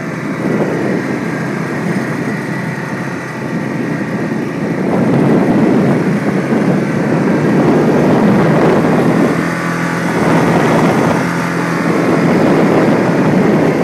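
Quad (ATV) engine running steadily while riding, with rough noise over it that grows louder from about five seconds in.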